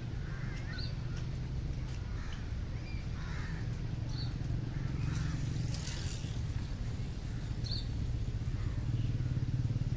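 Outdoor ambience: a steady low rumble with short bird chirps scattered through it, and a brief patch of rustling about halfway through.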